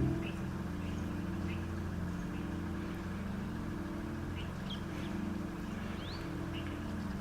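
Small birds giving short, high chirps every second or so over a steady low mechanical hum.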